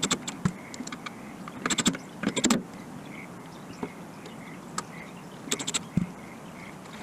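Clinks and rattles of metal parts being handled while working on a motorcycle fuel tank and its petcock, in a few short clusters, with a dull thump about six seconds in.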